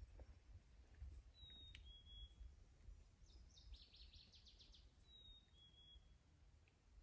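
Woodland songbirds in faint surroundings. One bird gives a clear two-note whistle, the first note higher and the second a little lower, twice. In between, another bird sings a rapid trill of about ten quick notes, all over a faint low rumble.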